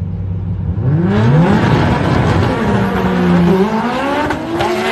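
Drag race car engines revving hard at high rpm. From about a second in the pitch climbs sharply several times, with more than one engine heard at once.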